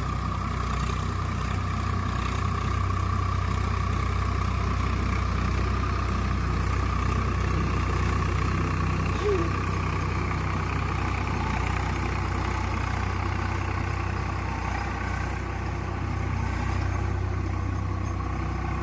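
Swaraj 744 FE tractor's three-cylinder diesel engine running steadily at a constant speed.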